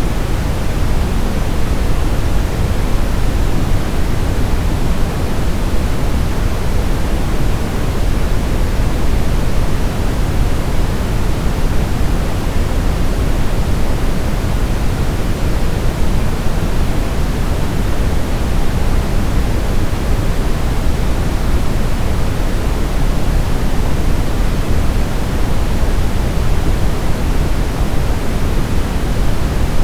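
Steady, unbroken synthetic white noise for baby sleep, a smooth hiss weighted toward the low end, like pink noise.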